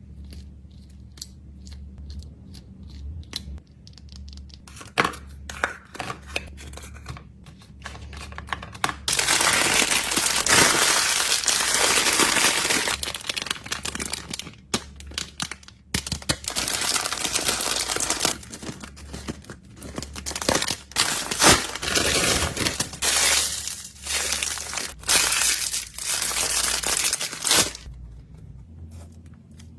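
Packaging crinkling and tearing as items are packed by hand. Light taps and rustles come first, then a long stretch of loud, dense crinkling with short pauses, fading down shortly before the end.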